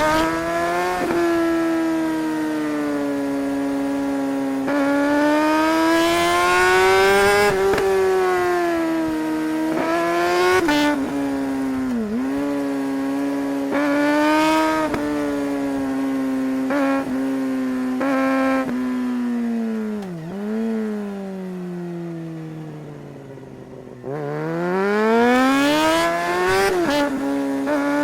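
Suzuki GSR 600's inline-four engine pulling hard through the gears, its pitch climbing and then dropping sharply at each quickshifter upshift, several times over. About three quarters of the way through it rolls off and runs quieter with falling pitch on engine braking, then the throttle opens and it revs up again.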